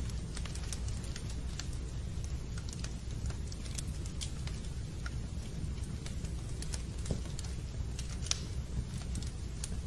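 Fireplace fire crackling: a steady low rumble under irregular small pops and snaps, with a somewhat louder snap about eight seconds in.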